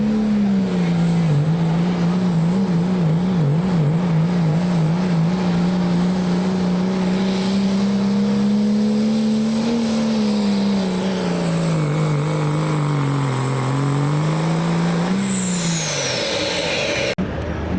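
Work stock diesel pickup truck pulling the sled at full throttle: the engine holds a steady drone under load, with a steady high whistle over it. Its pitch wavers rapidly about two to four seconds in and sags near the end. About fifteen seconds in, the throttle comes off and the engine and whistle wind down, then the sound cuts off abruptly.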